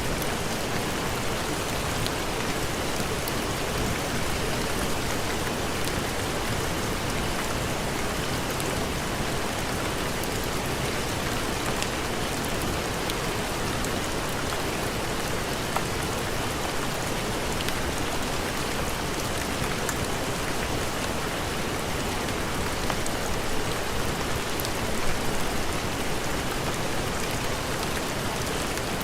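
Steady heavy rain: an even hiss with scattered small ticks of drops, swelling slightly near the end.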